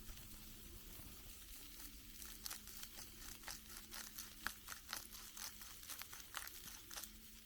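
Campfire crackling: irregular sharp pops and snaps of burning wood, beginning about two seconds in.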